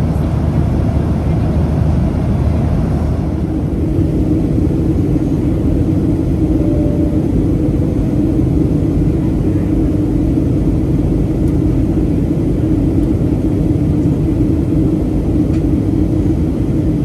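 Steady engine and airflow noise inside the cabin of a Boeing 737-700 airliner, with a low hum that comes in about three and a half seconds in and then holds steady.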